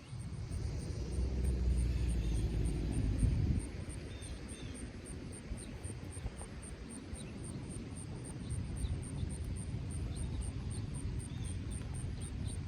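A vehicle engine running with a low hum that cuts off abruptly about three and a half seconds in, followed by a steady low rumble.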